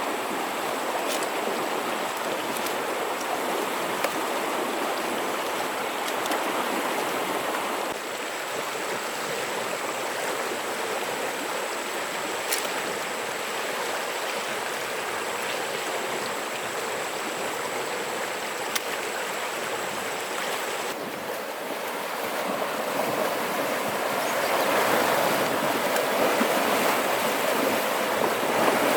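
Steady rush of flowing river water. A faint, thin, high-pitched whine runs until about two-thirds of the way through, and a few light clicks sound now and then.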